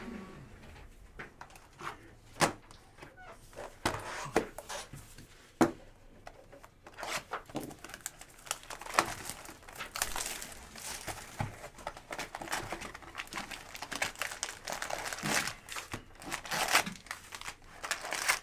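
Foil wrappers of Bowman Draft jumbo trading card packs being torn open and crinkled, with scattered clicks and rustles of handling. The crinkling gets much busier about seven seconds in.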